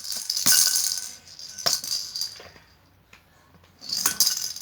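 Rattling shaken in short bursts: a long spell in the first half, then near quiet, then a brief shake again near the end, with one sharp click in the middle of the first spell.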